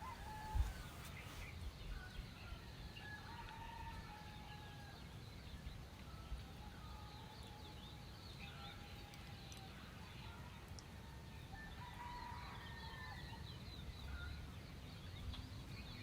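Faint outdoor ambience with distant birds calling: short wavering calls come and go, clustering about three seconds in and again near the twelve-second mark, over a low steady background hum.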